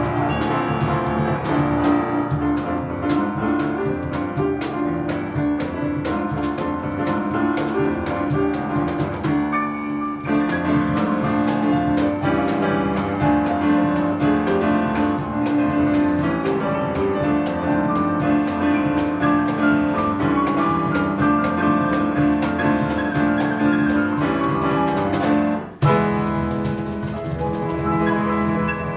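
Piano and percussion playing a fast, driving piece, with dense rhythmic drum hits under the piano. About three seconds before the end there is a sudden brief break, after which the percussion thins out and the piano carries on.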